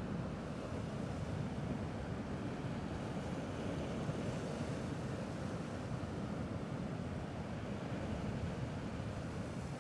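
Gentle sea waves washing against a rocky shore, a steady low wash with some wind on the microphone.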